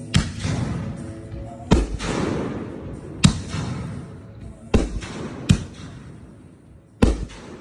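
Aerial fireworks going off: six sharp bangs, one to one and a half seconds apart, each trailing off in a rumbling echo.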